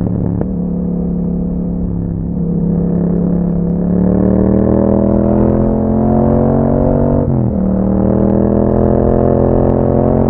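A 2021 Yamaha MT-07's parallel-twin engine, breathing through an Akrapovič exhaust, pulling under acceleration with its pitch climbing steadily. About seven seconds in the note dips sharply for a gear change, then climbs again.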